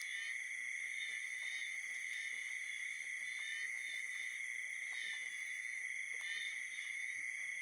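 Night chorus of frogs calling together with insects, a steady, unbroken high-pitched trilling with no pauses.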